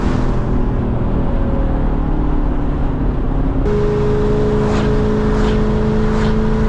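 Lexus SC400's 4.0-litre V8 with a loud exhaust, running steadily under way while driving. About three and a half seconds in, the engine note settles to a new steady pitch.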